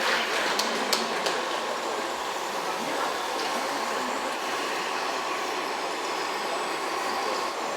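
Steady mechanical running noise with a faint high whine, typical of a small electric motor, after a few sharp clicks in the first second or so.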